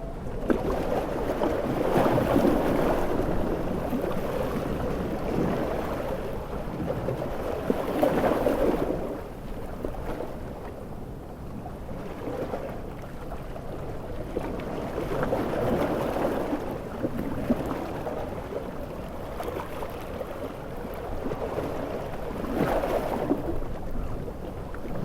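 Large ocean waves surging and breaking in slow swells, one roughly every six to seven seconds, over a steady rushing noise.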